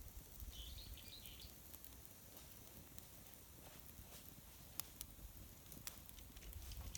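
Near silence: faint outdoor ambience with a low rumble, a brief high chirping sound about half a second in, and a few faint clicks later on.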